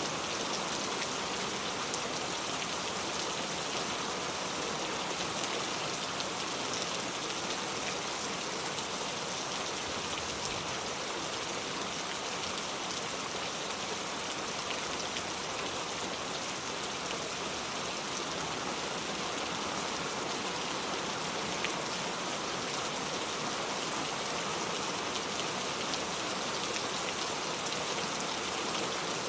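Steady rain falling, a constant hiss with fine drop patter on surfaces.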